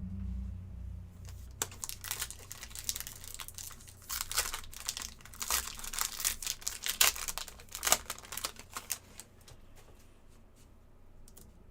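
Foil hockey-card pack wrapper being torn open and crinkled, a run of crackling from about two seconds in until about nine seconds in, busiest in the second half. A dull bump sounds right at the start.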